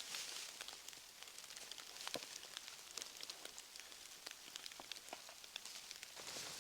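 Wood campfire crackling: irregular sharp pops and snaps over a soft hiss that swells at the start and again near the end.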